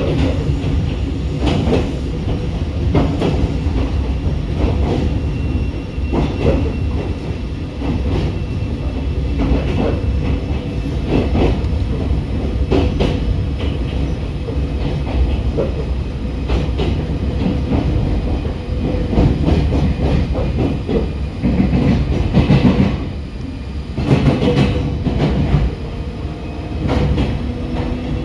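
Meitetsu electric train running on the rails: a steady rumble broken by irregular clicks of the wheels passing over rail joints.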